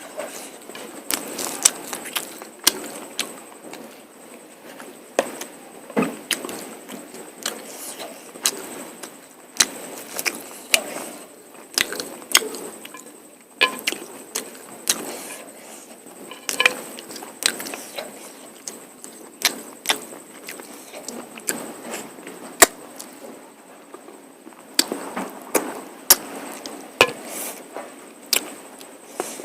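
Close-up eating sounds: chewing mutton curry and polao rice, with many irregular wet smacks and clicks of the mouth, several a second.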